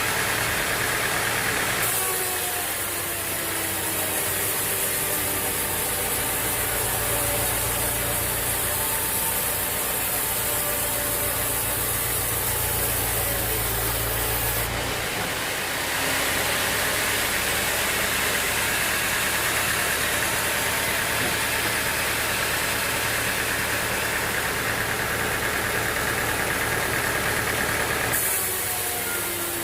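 Sawmill machinery running steadily, an engine drone over a constant noisy hiss; the sound changes abruptly about two seconds in, about halfway through and near the end.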